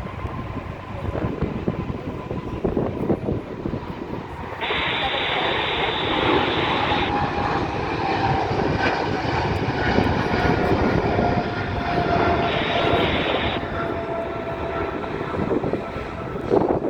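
Boeing 777 jet engines at takeoff power: a steady loud rumble with a faint whine that slowly falls in pitch as the plane goes by. Two short bursts of hiss come through, about five and twelve seconds in.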